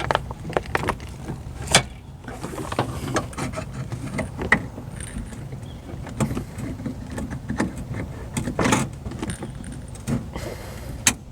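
Irregular clicks, taps and rattles of hands and parts knocking about inside a car door shell while a wiring connector is worked into place on the door latch assembly.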